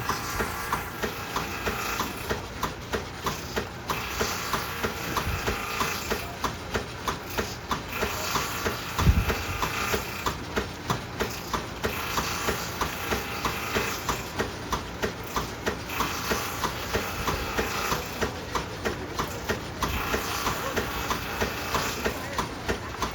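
Steam-driven 1930s copying wood lathe running as it turns an axe handle from a template: a steady mechanical din with a regular clacking about twice a second.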